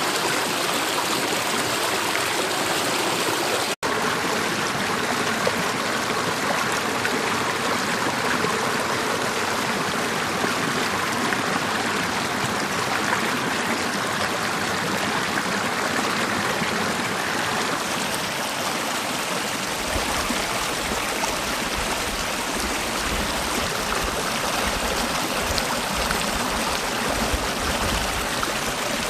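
Mountain valley stream rushing steadily over rocks. There is a momentary drop-out about four seconds in, and a low rumble joins about two-thirds of the way through.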